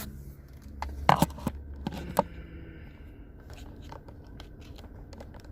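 Handling noise from a phone being moved and positioned: a few scattered clicks and knocks, bunched together about a second in, over a low steady hum.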